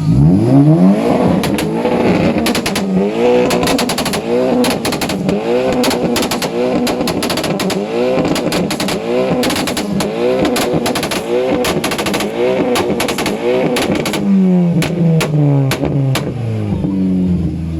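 Car engine revving hard again and again, each rev rising and falling about once a second. Sharp exhaust pops and crackles run through the revs. Near the end the engine note drops in steps.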